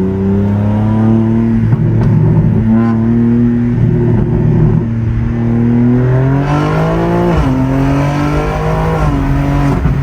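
BMW G82 M4's twin-turbo S58 inline-six, fitted with an aftermarket downpipe and mini cats, under a full-throttle pull heard from inside the cabin. The engine note climbs in pitch and drops sharply at each upshift, several times.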